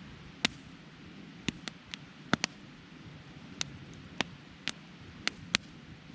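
Wood campfire crackling, with about a dozen sharp, irregular pops over a soft low hiss.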